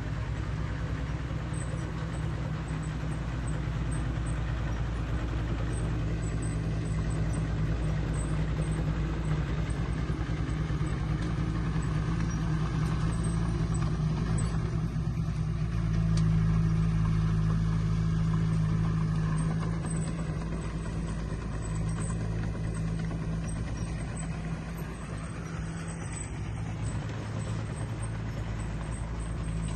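Diesel engine of heavy earthmoving machinery running steadily under work, a deep continuous drone that grows louder for a few seconds around the middle.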